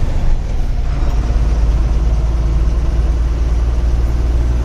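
Diesel truck engine running steadily under way, a loud low drone, heard from inside the cab.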